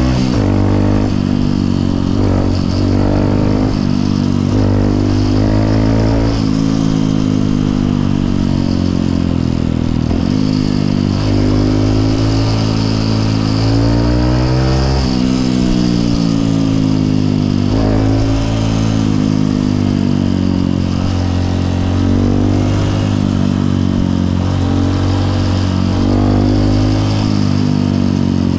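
Honda CRF150L's single-cylinder four-stroke engine heard from the bike while riding, its pitch repeatedly climbing under throttle and dropping away as the rider shifts gears and eases off.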